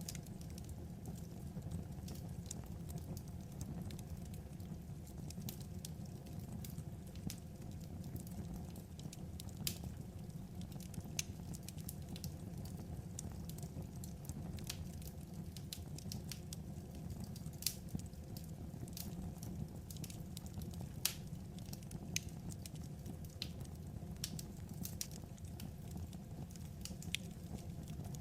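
Wood fire burning: a steady low rumble with irregular sharp crackles and pops from the firewood, a few of them louder than the rest.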